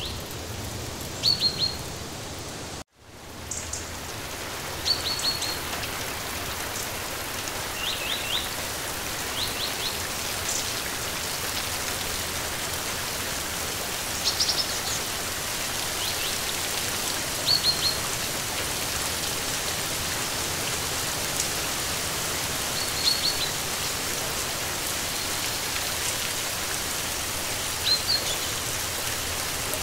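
Steady rain falling, with small birds giving short high chirps every few seconds. About three seconds in, the whole sound cuts out for a moment and fades back in.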